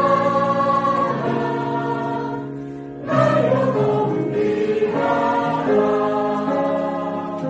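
Church choir singing a hymn in long held chords. One phrase fades about three seconds in, and the next starts at once.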